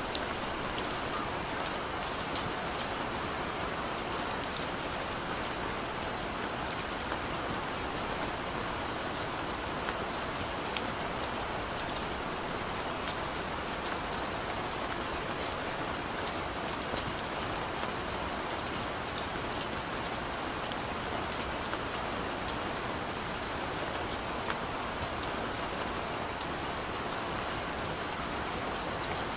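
Steady rain falling on a surface, an even hiss dotted with small sharp drop ticks, with no thunder.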